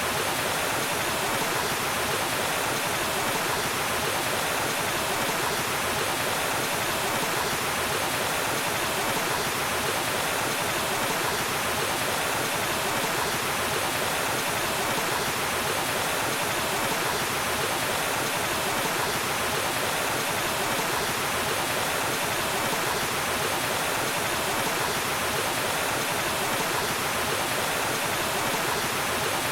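Waterfall: falling water splashing in a steady, unbroken rush.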